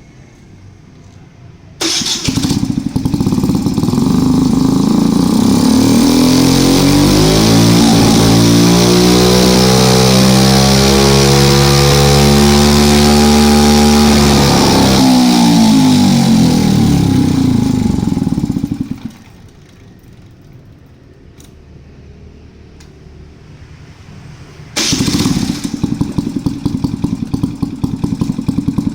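Suzuki Choinori scooter engine started through the exhaust under test: it catches about two seconds in, revs up and back down in one long sweep, and cuts off. Near the end it is started again and idles.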